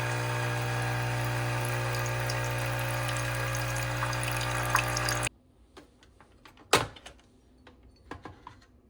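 Coffee machine's pump humming steadily as it dispenses coffee, then cutting off abruptly a little over five seconds in. A sharp knock and a few light clicks follow.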